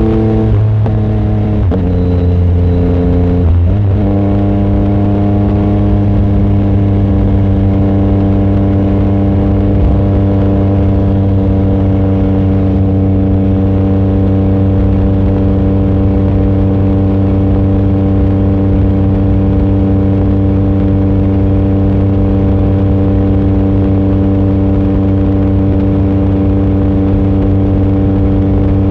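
Yamaha MT-09 SP's inline-three engine running through an aftermarket exhaust with its baffle removed. The engine note shifts in pitch a few times in the first four seconds, then holds at a steady speed.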